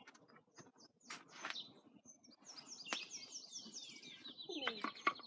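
A songbird singing a quick run of high, repeated chirps from about halfway in, over scattered sharp clicks and knocks.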